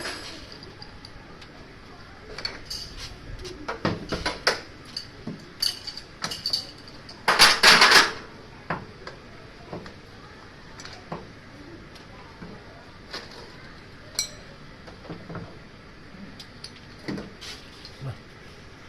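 Metal tools and fittings clinking and knocking during air-conditioner installation work: scattered irregular clicks and taps, with one loud rushing noise lasting under a second about seven seconds in.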